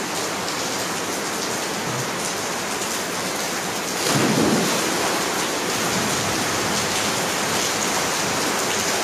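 Rainstorm pouring down steadily, an even hiss of rain; about four seconds in it grows louder, with a brief deeper rumble.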